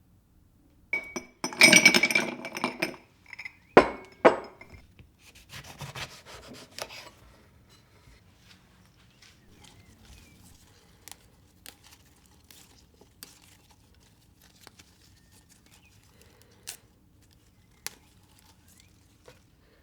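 Household objects being handled: a couple of seconds of scraping and rubbing, two sharp knocks a moment later, another short stretch of scraping, then scattered light clicks and taps.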